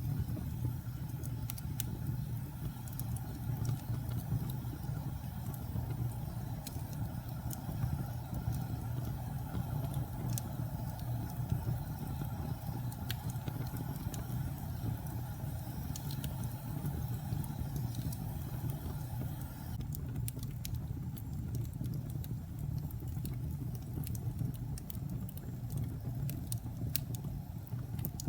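Wood fire burning in a fireplace: a steady low rumble with scattered small crackles and pops throughout.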